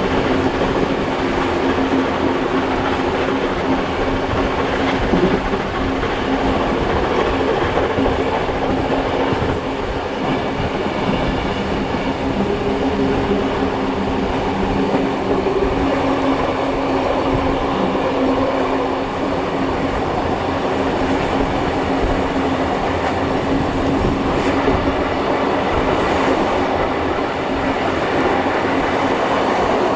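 Steam-hauled heritage passenger train running steadily, heard from the carriages behind the locomotives: a continuous rumble of wheels on rail with a constant hum.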